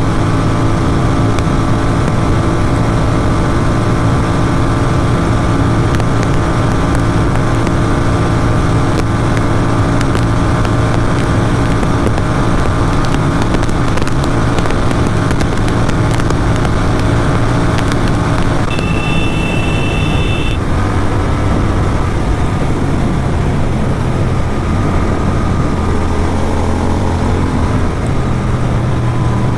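Motorcycle engine with an Atom aftermarket exhaust running steadily at highway speed, with wind and road noise. A horn sounds for about two seconds a little past the middle, and after it the engine note drops lower.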